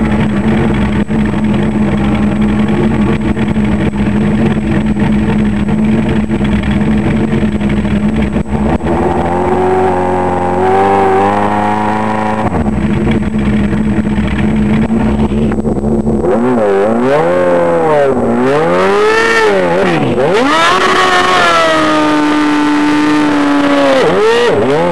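Motorcycle engine running with a steady pitch at first, then climbing in steps, then revved up and down in repeated quick swoops during the second half.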